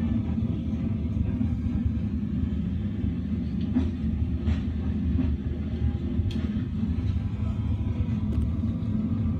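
Steady low rumble of a moving passenger train, heard from inside the carriage, with a few faint knocks partway through.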